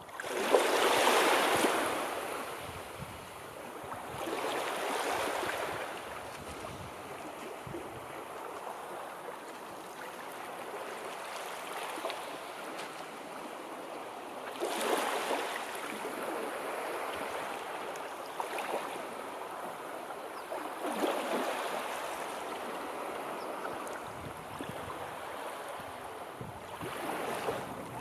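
Sea surf: waves breaking and washing in, a swell of hiss every several seconds, the loudest about a second in and others around 5, 15, 21 and 27 seconds.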